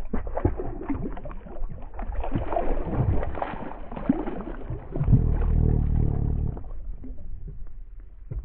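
Water splashing and gurgling against a small boat, with irregular knocks and a steadier low rumble about two-thirds of the way through.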